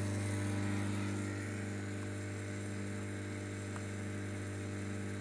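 Steady low electrical hum of a homemade egg incubator running, with a couple of faint ticks.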